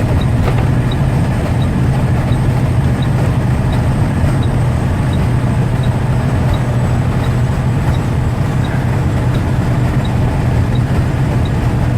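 Steady drone of a Western Star 9400 semi truck's engine and tyres at highway cruise, heard from inside the cab, with the engine held in a DEF derate at about 55 mph. A faint, regular tick sounds about every 0.7 s.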